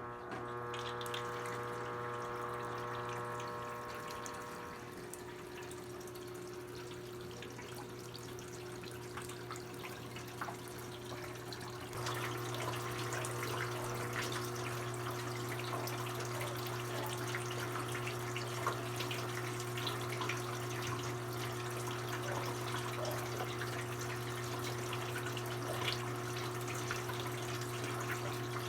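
Brastemp BWK17 top-loading washing machine filling with water: water rushes into the tub over a steady electric hum. It starts suddenly and gets louder about twelve seconds in.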